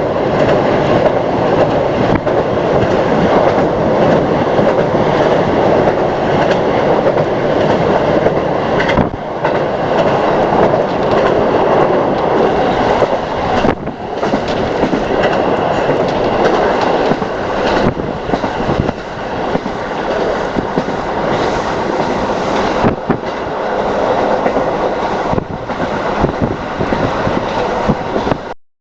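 A train running along the rails, its wheels clacking over the rail joints in a steady rumble. The sound cuts off abruptly near the end.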